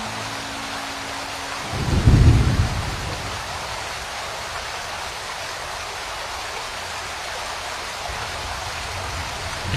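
Steady rain falling, with a low roll of thunder about two seconds in and another starting near the end.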